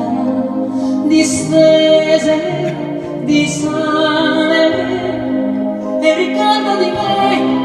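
Live music: a woman singing long held notes over instrumental accompaniment.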